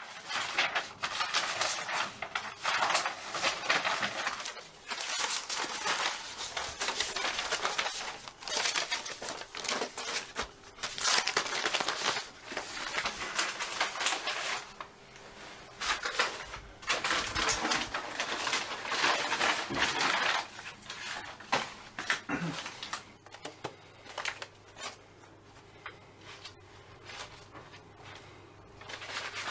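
Rustling and crumpling handling noises with quick knocks and clicks, dense for about twenty seconds and then quieter.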